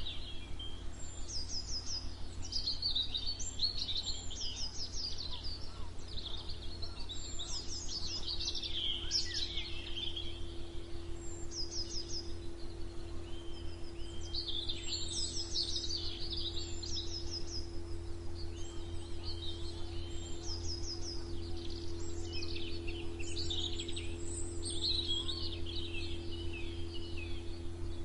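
Several songbirds singing and chirping in overlapping phrases of quick, high repeated notes and trills, over a steady low hum.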